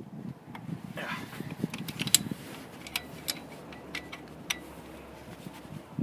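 Scattered light metallic clicks and clinks, some with a short ring: steel tools and engine bolts being handled and set down.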